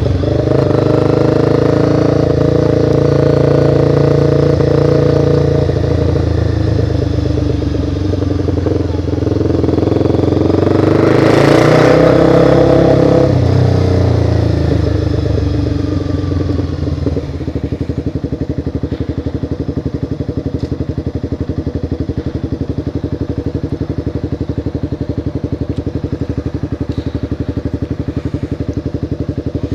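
Motorcycle engine under way, its pitch shifting with a louder rush of noise about twelve seconds in. The engine then settles to a steady, quieter idle with an even pulse for the second half.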